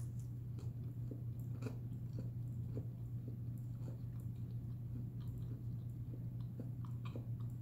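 A person chewing a bite of fried green tomato with her mouth closed: faint, irregular crunching clicks, about one every half second to a second, over a steady low hum.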